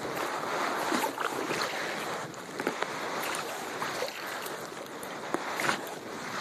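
Water splashing and dripping around a sit-on-top kayak as it is paddled, with small irregular splashes over a steady wash of water and wind on the microphone.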